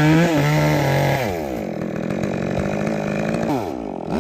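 Two-stroke chainsaw running at high speed, its pitch falling about a second in and then holding at a lower, steady speed. The engine speed rises again near the end.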